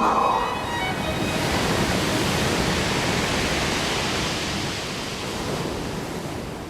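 Sea surf: a steady rush of waves washing in, slowly fading toward the end.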